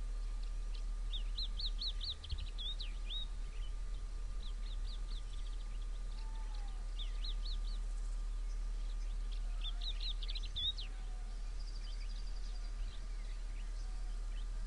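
Wild songbirds singing: several bursts of quick, repeated high chirping notes, with a few lower whistles between them, over a steady low hum.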